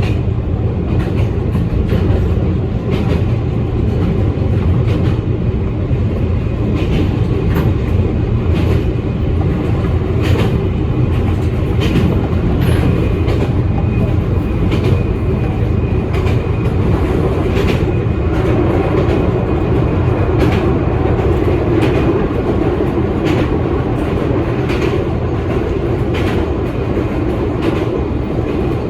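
Electric passenger train running along the line, heard from inside the car: a steady low rumble with wheels clicking over rail joints at irregular intervals.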